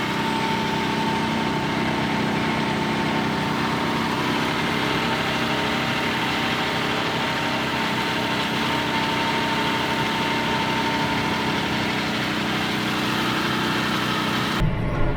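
John Deere tractor engine running steadily while pulling a cultivator through the field, with a thin steady whine above the engine note. It cuts off abruptly near the end.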